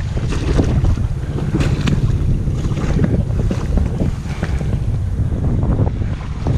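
ATV engine running under way, with wind buffeting the microphone and irregular knocks and rattles from the ride.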